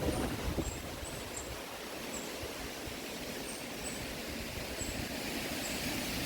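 Wind blowing hard through trees and buffeting the microphone: a steady rushing with a low rumble. Faint, short, high chirps sound every half second or so.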